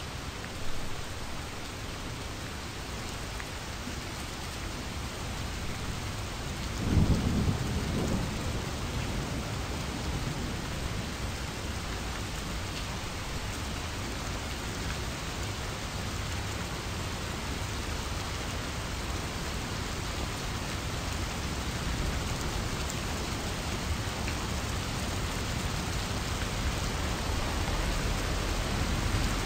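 Steady rain falling, with a low rumble of thunder about seven seconds in.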